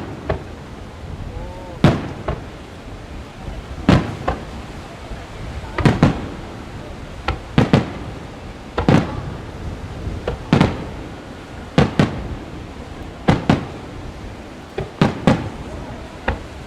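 Fireworks shells bursting in the sky: a sharp bang every one to two seconds, often two in quick succession, each trailing off before the next.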